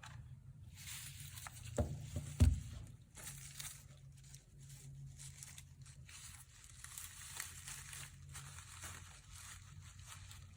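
Dry coir (coconut husk) fibre rustling and crackling as it is handled and trimmed, with two sharp clicks about two seconds in.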